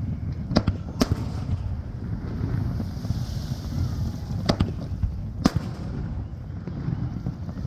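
Aerial fireworks shells bursting: four sharp bangs at uneven intervals, two close together near the start and two more past halfway, over a steady low rumble of wind on the microphone.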